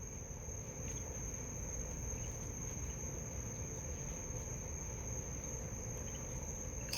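Night insects, likely crickets, singing as a steady high-pitched trill, over a low background hiss with a few faint clicks.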